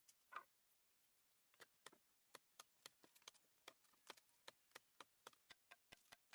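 Faint, irregular clicks and taps, several a second, with a brief scrape just after the start, typical of hand work with wood and tools.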